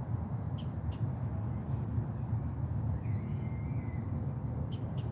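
Bird calls over a steady low rumble: a few short high chirps, and one longer wavering call about three seconds in.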